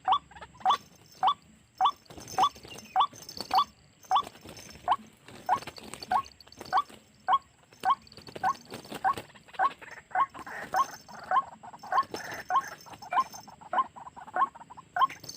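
White-breasted waterhen calling: a short, sharp rising 'kwak' note repeated steadily about twice a second.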